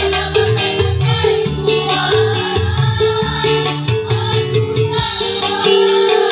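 School choir singing a song over instrumental accompaniment with a moving bass line.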